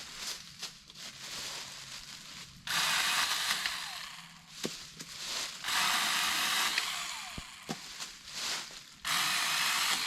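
Power saw cutting through a tree limb for firewood in three bursts, each starting suddenly and tailing off, with rustling and a few knocks of handling the wood between cuts.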